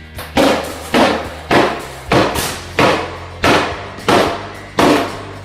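Hammer blows in a bathroom demolition, about eight evenly spaced strikes, roughly one every two-thirds of a second, each with a short ring.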